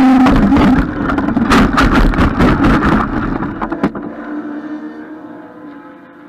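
Road vehicle collision: a horn cuts off at the start, then a loud rumble with a run of clattering, scraping impacts for about three seconds, fading into a low steady hum.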